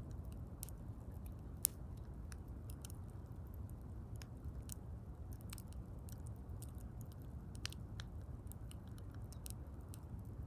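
Wood fire crackling: a steady low rumble of burning with irregular sharp snaps and pops, one louder pop about a second and a half in.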